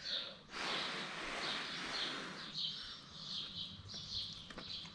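A bird chirping over and over in the background, short high chirps about two a second. A breathy rush of noise rises over it from about half a second in and fades by about two and a half seconds.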